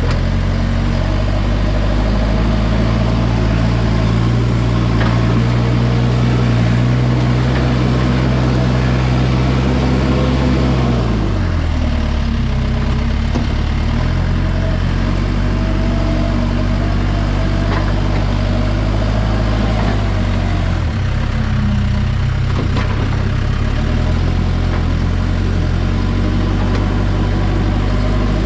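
Backhoe's diesel engine running steadily, its revs dropping about eleven seconds in and dipping again around twenty seconds.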